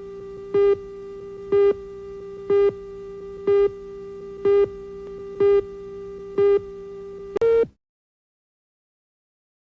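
Electronic countdown tone in the manner of a VT clock: a steady buzzy tone with a louder beep about once a second, eight times, then a final higher, louder beep that cuts off abruptly.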